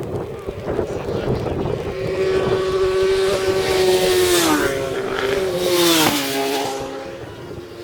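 Racing motorcycles passing at speed, the engine note held high and then dropping sharply in pitch as each bike goes by, twice: about four and a half seconds in and again about a second and a half later.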